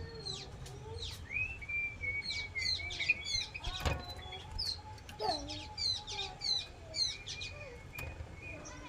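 Jongkangan (racket-tailed treepie) calling a fast, varied string of short high chirps and downward-flicking notes mixed with a few whistled and lower notes. There is a single sharp tap about four seconds in.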